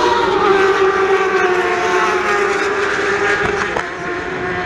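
Racing superbike engines running at high revs trackside, a sustained high engine note that slowly falls in pitch.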